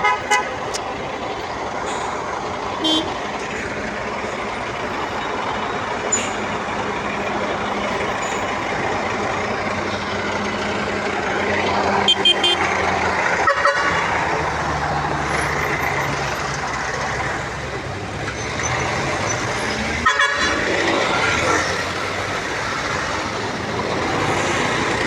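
City road traffic with a vehicle engine running steadily, its pitch dropping about halfway through, and car horns honking briefly around the middle and again later on.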